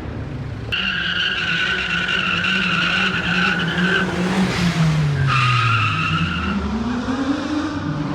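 A car's tyres squealing under wheelspin in two long stretches, about three seconds and then about a second, over its engine revving down and back up.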